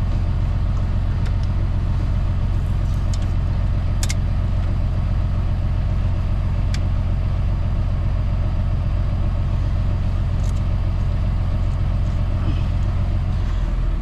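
Semi truck's diesel engine idling steadily, a constant low hum, with a few light clicks of parts being handled.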